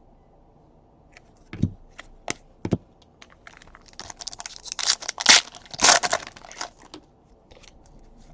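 Trading cards being handled: a few light taps, then crinkling and tearing of plastic or foil wrapping from about four to seven seconds in.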